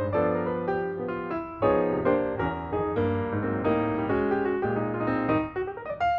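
Background piano music: a steady flowing melody over low bass notes.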